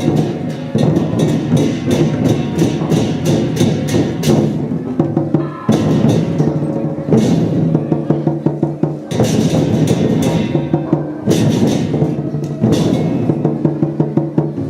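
Traditional lion-dance percussion: a big drum beaten with cymbals and gongs in fast, dense rhythmic phrases, with brief breaks between phrases.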